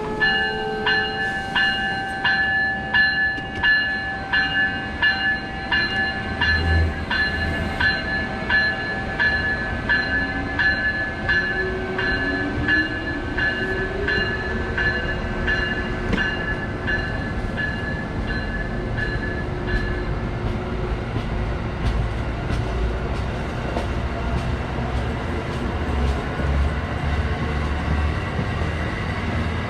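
A train running on the track, with a steady high-pitched whine and a regular clicking about twice a second that fades out after about twenty seconds, and a rising tone partway through.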